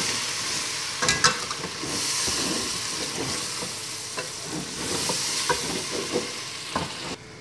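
Mutton pieces frying with turmeric in oil in an aluminium pot, a steady sizzle, while a spatula stirs and scrapes them, knocking against the pot several times, loudest about a second in. The sizzle falls away suddenly just before the end.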